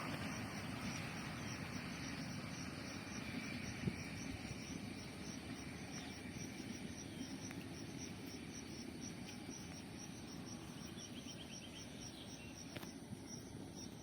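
Low rumble of a train fading slowly away, with an insect chirping steadily at a high pitch, about three chirps a second.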